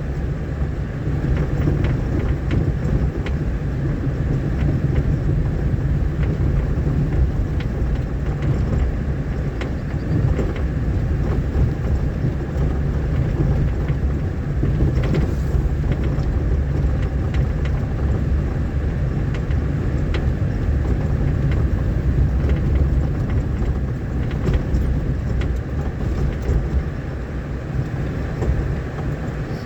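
Vehicle driving along a rough, muddy dirt road: a steady low engine and road rumble with scattered small knocks and rattles.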